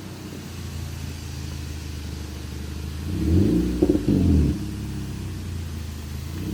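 Car engine running steadily, then revved once about three seconds in, the pitch climbing and dropping back within about a second before settling again.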